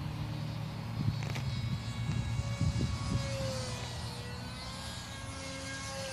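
Distant RC electric glider's motor and propeller running at full throttle: a steady whine that wavers a little in pitch as the plane flies about. Wind rumbles and bumps on the microphone.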